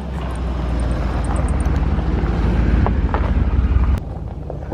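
Ford F-150 FX4 pickup driving on a dirt trail: a low engine-and-tyre rumble that grows louder, with scattered small clicks, breaking off sharply about four seconds in.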